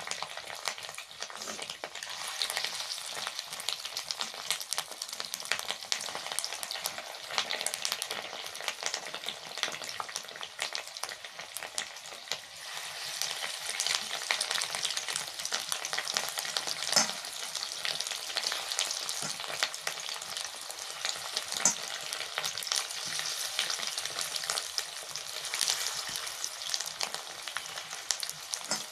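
Fish-roe fritters (macher dimer bora) frying in hot oil in a kadai: a steady sizzle thick with fine crackling spatters, a little louder in the second half.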